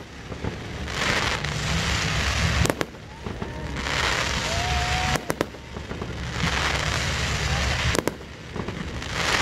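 Aerial fireworks show: sharp bursts come in pairs about every two and a half seconds, three pairs in all. Between them a noisy crackling hiss builds up.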